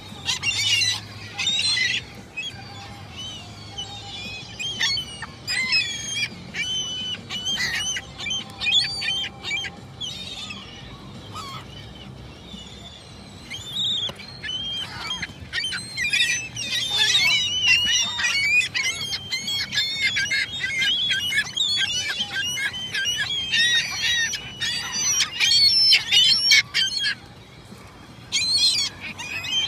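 A flock of gulls calling, many short repeated calls overlapping, busiest in the second half with a brief lull near the end.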